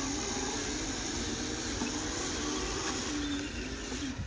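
Small electric motor of a radio-controlled construction truck whining, its pitch rising and falling, over a steady hiss.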